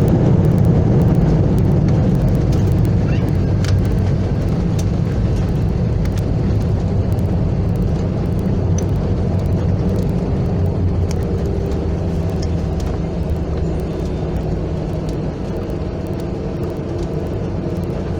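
Airbus A319 cabin noise: a steady low rumble from the engines and airframe, slowly getting quieter as the airliner slows on the ground after landing. Faint clicks and rattles are heard here and there.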